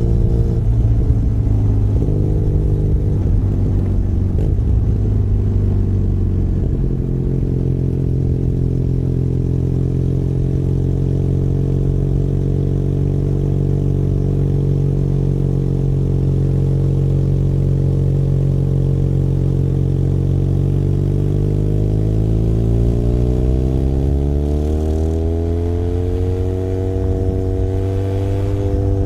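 Benelli Leoncino 500 Trail's 500 cc parallel-twin engine under way, heard from the rider's seat. It runs unevenly for the first several seconds, holds a steady pitch through the middle, then revs up for several seconds as the bike accelerates, with a brief dip in pitch near the end.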